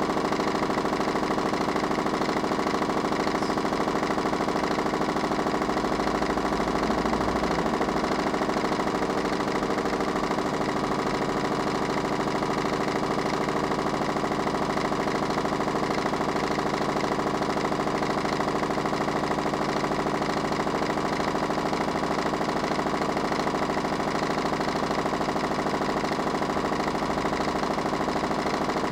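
Mini washing machine's motor running with a steady mechanical hum and whir, with a brief low rumble about a quarter of the way through.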